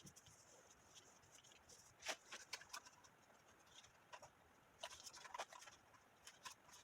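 Faint scattered clicks and light taps over a quiet hiss, typical of cardstock paper being handled and folded, clustered in two short runs.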